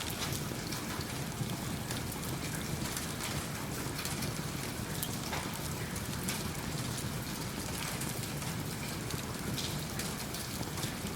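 Steady rain falling, mixed with the scattered sharp crackles of a wood fire burning in a fireplace.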